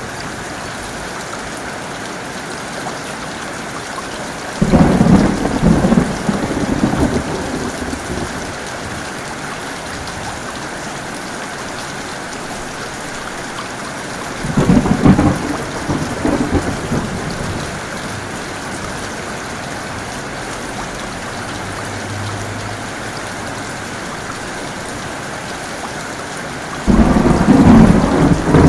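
Heavy, steady rain with three claps of thunder roughly ten seconds apart, each rumbling on for two or three seconds; the last comes near the end.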